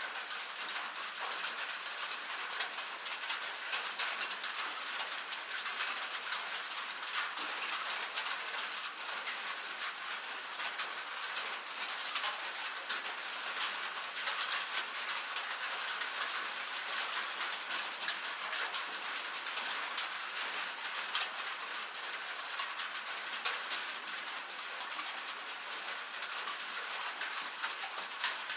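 Rain falling on a metal roof: a steady, dense pattering of countless small drops ticking on the sheet metal, with no low rumble.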